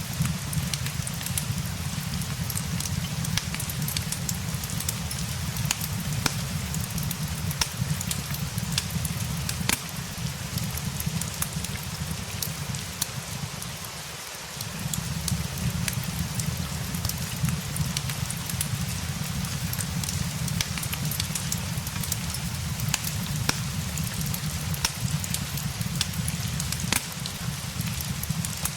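Steady rain with a low rumble beneath it, and a fireplace crackling, with sharp pops scattered throughout. About halfway through, the low rumble briefly drops away and comes back.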